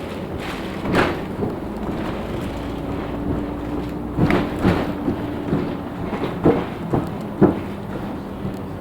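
Cabin noise of a LiAZ-6213.65 articulated city bus under way: a steady drivetrain hum with a low held whine, broken by loud knocks and rattles from the body, about six of them, most in the second half.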